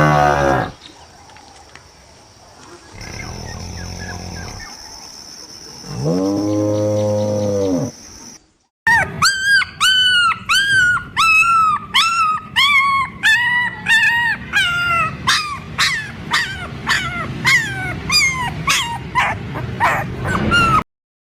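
Recorded animal calls: a low, deep moo-like call ending, another low call from about six to eight seconds in, then from about nine seconds in a long run of high, whining calls, each rising and falling in pitch, repeating faster and faster.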